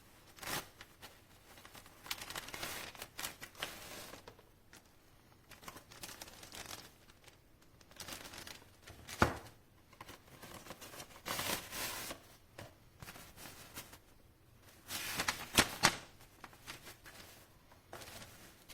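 Packaging being handled by hand: irregular rustling, crinkling and scraping, with a sharp tap about nine seconds in.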